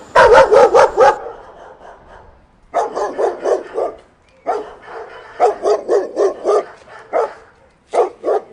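Dog barking in quick runs of about five barks a second, with short pauses between the runs.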